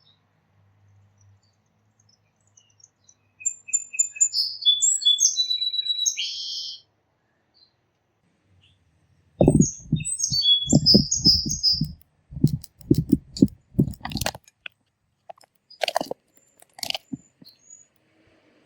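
Small songbirds chirping and singing in two short bouts of quick high phrases. During the second bout there is a run of low, rapid crunching knocks for about five seconds, then a couple of sharp clicks.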